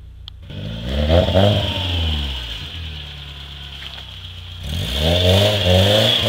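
Car engine revving as the car pulls away, rising and then falling in pitch about a second in. It revs up and down again from about five seconds in.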